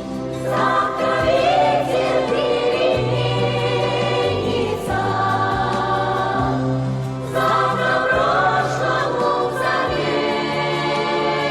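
Music: a choir singing long, wordless held phrases with vibrato over an instrumental accompaniment.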